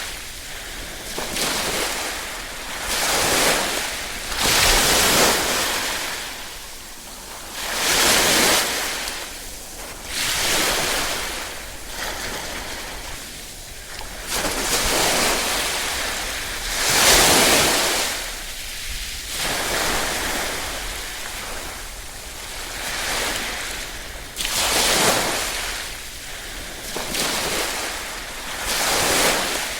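Small waves lapping on a shore, each swell of hiss rising and falling every two to three seconds, with one louder wave about two-thirds of the way through.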